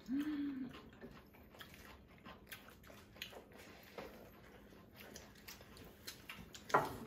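People chewing mouthfuls of lettuce wraps and rice close to the microphone, with many small wet mouth clicks. A short hummed "mm" comes at the start and a sharp click near the end.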